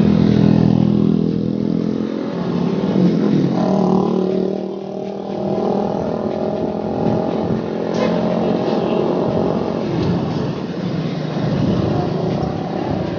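Road traffic passing close by: motor vehicle engines, motorcycles and cars, running and accelerating, with a pitched engine hum that changes as vehicles come and go.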